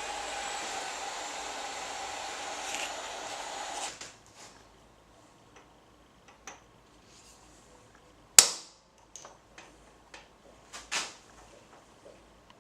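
A power tool whirs steadily and cuts off about four seconds in. Scattered workshop clicks and knocks follow, with one sharp, loud metal strike about eight seconds in and two more strikes a little before eleven seconds.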